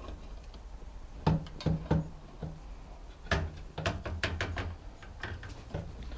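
Scattered knocks and clicks of bike parts and tools being handled during assembly, in two loose clusters.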